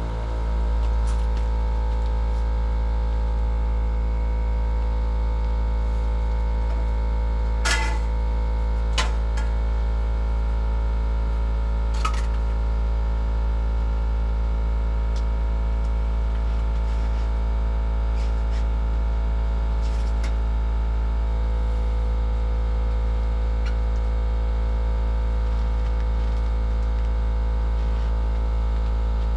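A steady, loud low hum with a stack of unchanging tones above it, broken only by a few light clicks about 8, 9 and 12 seconds in.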